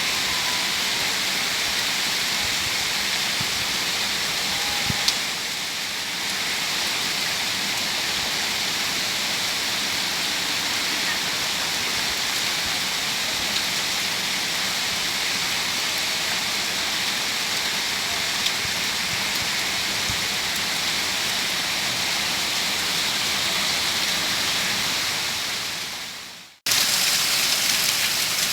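Heavy rain pouring steadily in a dense, even hiss. Near the end it fades away, cuts out for a moment, then returns a little louder.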